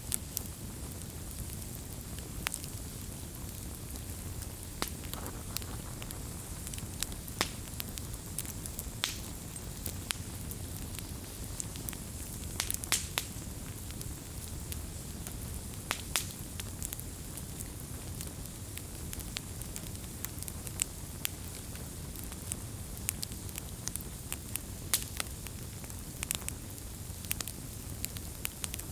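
Campfire burning with a low steady rumble, irregular sharp crackles and pops of burning wood scattered throughout.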